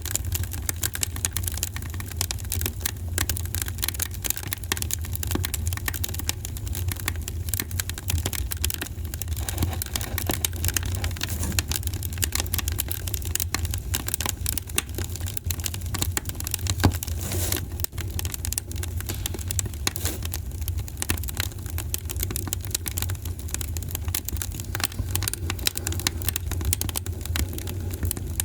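Wood fire crackling with many small, sharp pops over a steady low rumble. One louder pop comes about seventeen seconds in.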